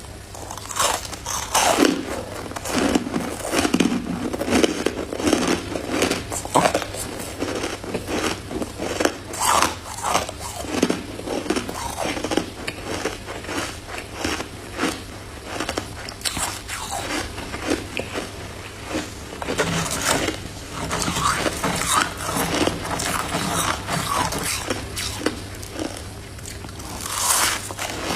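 Close-up biting and chewing of crunchy freezer frost: a dense run of irregular crisp crunches.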